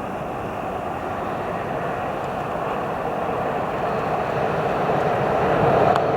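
A train running on the track and approaching, its noise growing steadily louder.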